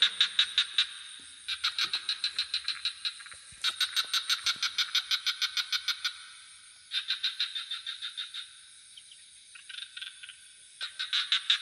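Frogs calling in repeated bouts of rapid, evenly spaced pulses, about seven or eight a second, each bout lasting one to two and a half seconds with short gaps between them. Under them runs a continuous high-pitched trill of night insects.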